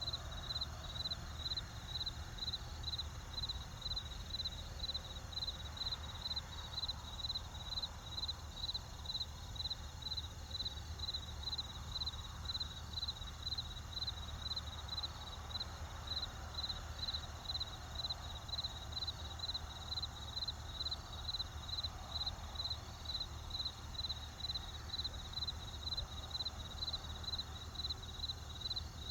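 Crickets chirping in an even, unbroken rhythm, about two chirps a second, over a low steady rumble.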